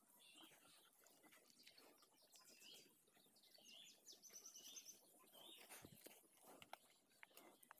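Faint birds chirping: short calls repeating every second or so, with a quick high trill about four seconds in.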